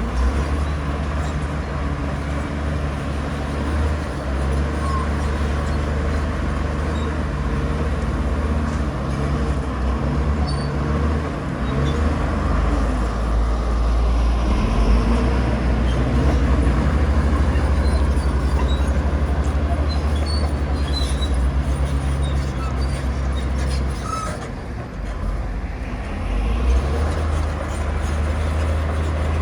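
Heavy diesel engine of earthmoving machinery running steadily with a deep drone, briefly easing off about 25 seconds in before picking up again.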